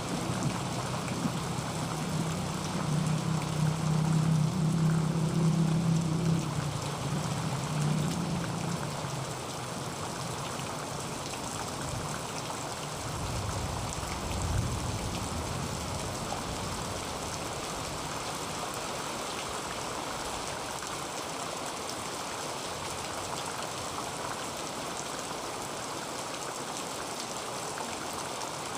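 Heavy rain falling steadily on a tin roof, an even hiss of drops on metal. A low rumble of thunder runs under it for the first several seconds and dies away.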